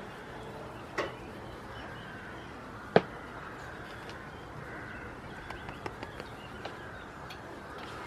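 Birds chirping faintly, short scattered notes, with a sharp click about three seconds in and a softer one about a second in.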